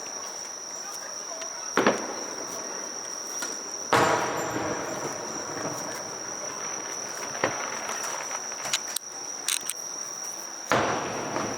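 Fireworks bursting overhead: four booms, each echoing away, the loudest about a third of the way in. A steady high-pitched insect trill from crickets runs underneath.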